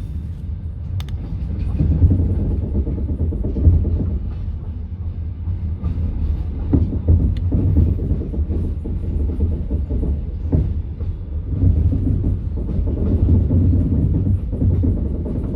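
Passenger train carriage heard from inside, a steady low rumble with a few sharp knocks of the wheels over the track.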